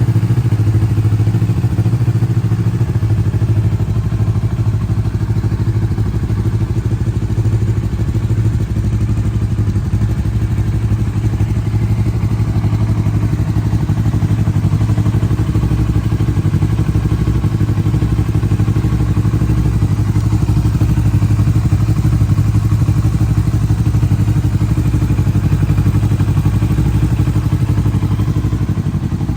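Kawasaki Versys 650's parallel-twin engine running steadily at idle.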